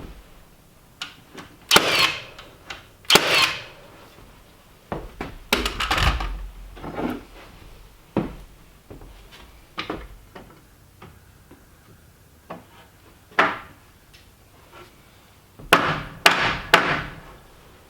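Lumber and tools being handled during timber frame carpentry: a string of irregular wooden knocks, clunks and short scrapes with pauses between them, the busiest stretch near the end.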